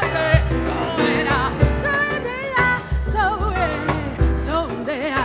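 Live band music: a bending, wavering melodic lead line over repeated bass notes.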